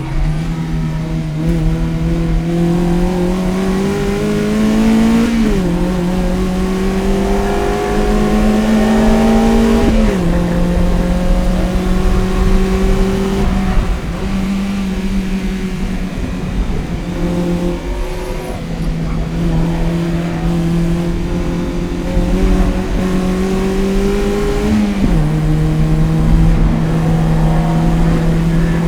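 A Toyota MR-S's 1.8-litre 1ZZ-FE four-cylinder engine, breathing through an aftermarket header and Fujitsubo exhaust, pulling hard under track driving. Its pitch climbs and drops sharply at gear changes about five and ten seconds in and again near the end, with a steadier stretch in between.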